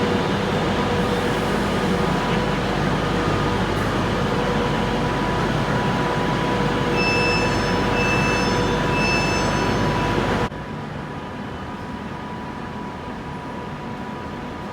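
A train running at the platform with a steady rumble and hum. About seven seconds in come three short, high beeps, evenly spaced. A few seconds before the end the sound cuts suddenly to a quieter, steady train noise.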